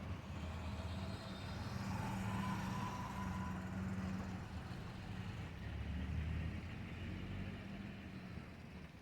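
Low, steady engine-like rumble of a motor vehicle, swelling and easing off, with a faint thin whistle briefly about two seconds in.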